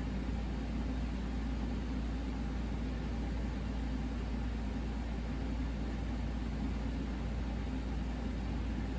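Steady low electrical hum with an even faint hiss over it, unchanging throughout.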